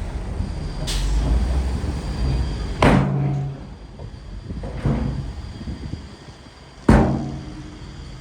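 Heavy machinery rumbling low, under a deep booming hit about every two seconds, each ringing out briefly.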